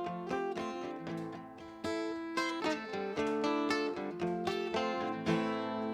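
Guitar intro: single plucked notes picked one after another, each ringing on, at a moderate pace.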